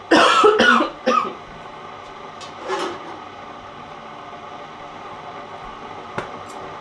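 A woman coughing, a loud burst and a shorter one right after it, from a chest sick with bronchitis. A weaker cough or throat-clear follows near 3 s, and a steady low hum runs underneath.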